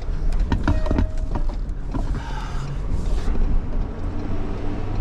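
Low, steady rumble of a vehicle's engine and tyres heard from inside the cab while driving slowly, with a few clicks and rattles in the first couple of seconds.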